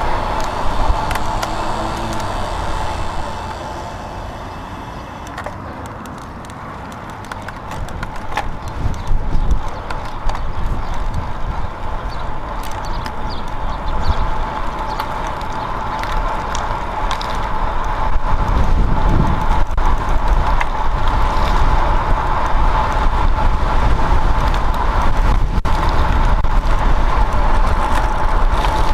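Bicycle riding along the road: wind rushing over the microphone and tyre noise, with a steady hum running through it. It dips a few seconds in, then grows louder about two-thirds of the way through as the speed picks up.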